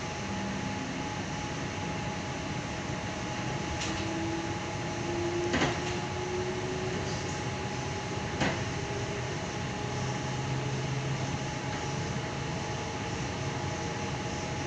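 Tangara electric train heard from inside the carriage, running between stations with a steady rumble and a faint whine that slowly rises in pitch through the middle. Two sharp knocks come through, a few seconds apart.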